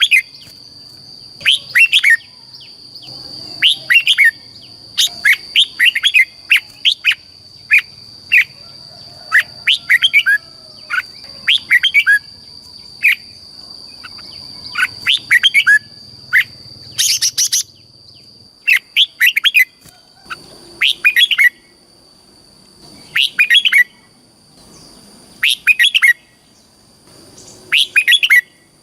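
Red-whiskered bulbul singing: short, loud, warbling song phrases repeated every second or two, some in quick pairs. A steady thin high-pitched tone runs underneath.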